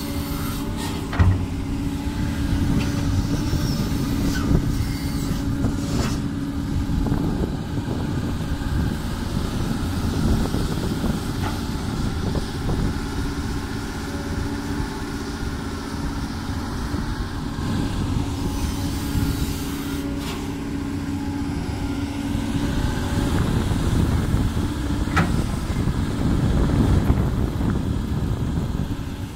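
Doosan DX200 crawler excavator's diesel engine running steadily under working load, with a few short clanks or knocks, the loudest about a second in.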